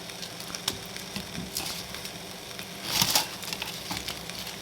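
Chopped onion and garlic sizzling in a frying pan, with small crackles throughout and a brief louder scrape about three seconds in.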